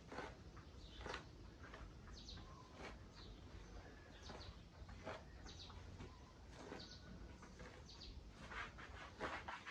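Local chickens calling softly with short chirps and cheeps, over irregular sharp knocks.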